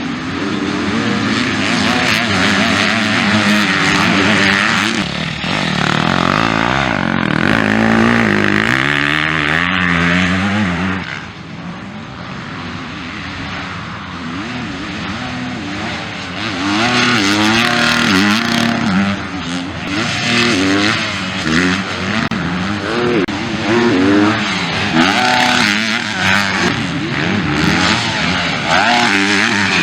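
Several motocross bikes racing, their engines revving up and down again and again as riders work the throttle through the track. The sound eases off for a few seconds about a third of the way in, then builds again as more bikes come through.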